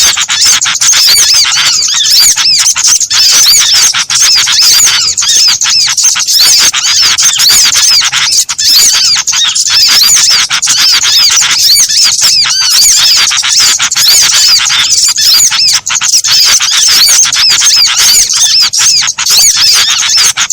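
Dense, unbroken chorus of small songbirds chirping and twittering in rapid high-pitched notes, many calls overlapping: a layered bird-lure recording that mixes several small-bird species to draw wild birds in.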